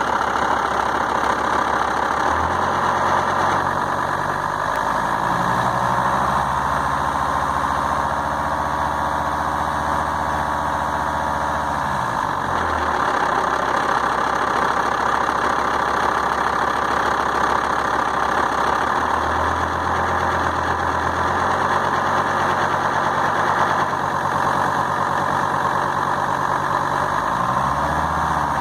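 Volvo S80's D5252T 2.5-litre five-cylinder turbodiesel idling roughly. Its low hum shifts in pitch a few times, as the idle speed changes.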